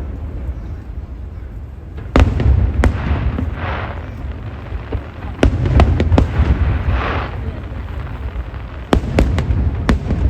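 Aerial fireworks bursting: a string of sharp bangs in clusters over a deep, rolling rumble, with a rushing noise rising twice between the bursts.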